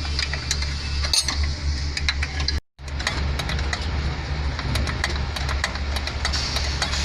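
Isuzu 8PC1 V8 diesel engine running steadily, a low drone with rapid fine ticking over it. The sound cuts out completely for a moment about two and a half seconds in.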